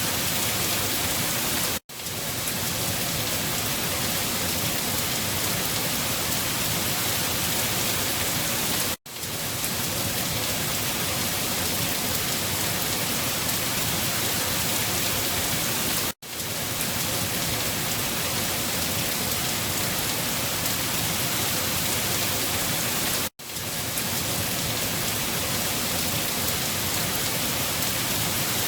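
Steady rain, an even hiss of drops falling on a surface. It cuts out for a split second four times, about every seven seconds, then comes straight back at the same level.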